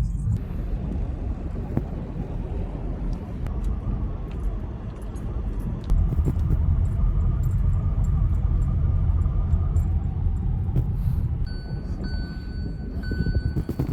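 Low, steady rumble of a car on a snowy road, engine and road noise heard from in or near the vehicle. A faint steady high tone comes in near the end.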